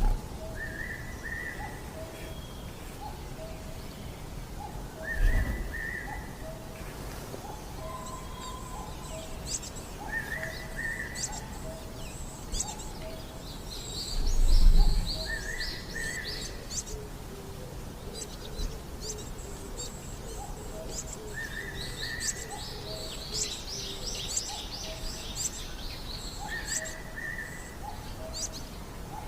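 Several birds calling: a short phrase repeated every few seconds, a steady run of low short notes, and bursts of high, thin twittering that fits coal tits at their nest hole. Two dull low thumps, about five and fifteen seconds in, are the loudest sounds.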